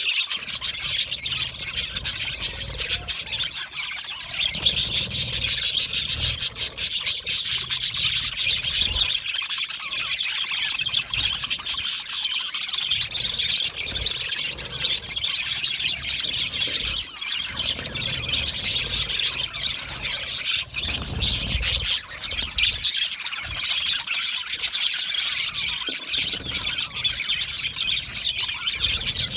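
A colony of budgerigars chirping and chattering, with many high, overlapping calls running on without a break. The chirping swells louder for a few seconds, about five seconds in.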